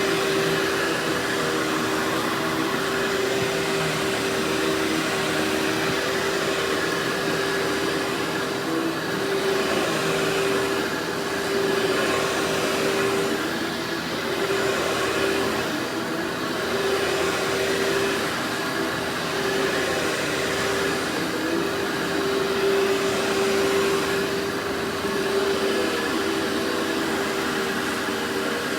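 Vacuum cleaner running steadily: an even motor hum over rushing suction air, which swells and dips slightly every few seconds.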